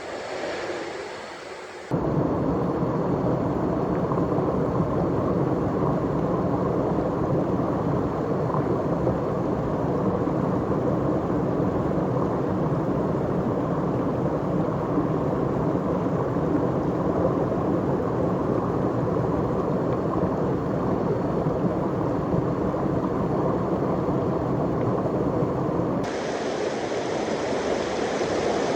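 Waterfall water rushing in a steady, heavy, low-weighted rush. It starts abruptly about two seconds in, and near the end it switches abruptly to a lighter, brighter rush of water.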